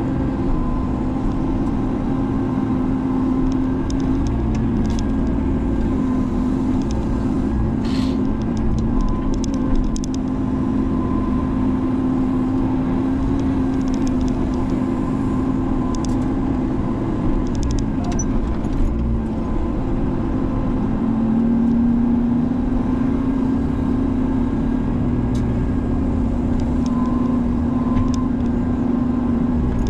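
Diesel engine of a Menzi Muck spider excavator running steadily under working load, its note shifting and growing slightly louder about two-thirds of the way through, with a few short sharp knocks.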